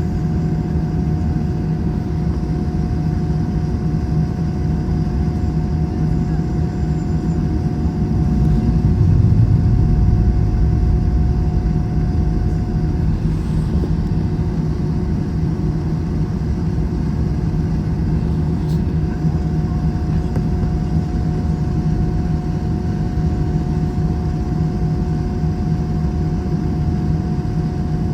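Steady cabin noise of an Airbus A321 airliner: engine and airflow drone with a steady hum, the low rumble swelling for a few seconds about nine seconds in.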